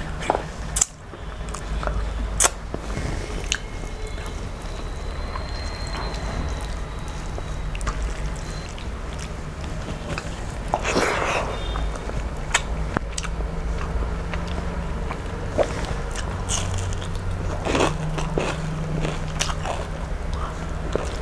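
Close-miked eating: chewing, biting and sharp mouth clicks as rice and fried fish are eaten by hand, with the wet squish of rice being mixed with curry. A steady low hum lies underneath.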